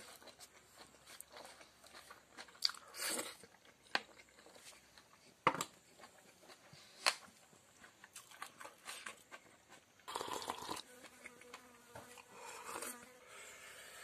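A person eating fried chicken intestine and pork fat with his fingers: chewing with scattered sharp mouth clicks and smacks, and a few longer noisy bursts of chewing.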